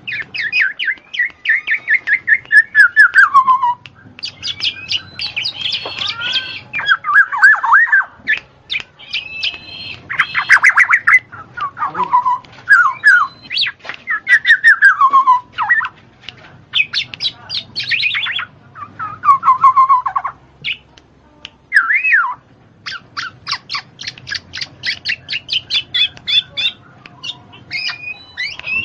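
A bird calling loudly and close by, in a string of whistles that slide downward, mixed with runs of rapid chattering notes.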